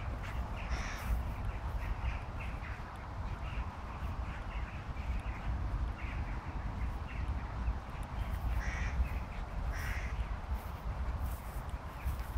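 A few short bird calls, about a second in and again around nine and ten seconds in, over a steady low wind rumble on the microphone.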